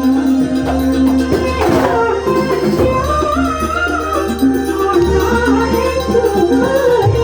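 Banyuwangi kuntulan music played live: drums and held instrumental tones, with a singing melody line coming in about three seconds in.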